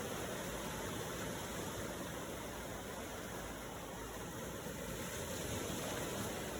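Ocean waves: a steady wash of surf with no distinct breaks, swelling slightly in level.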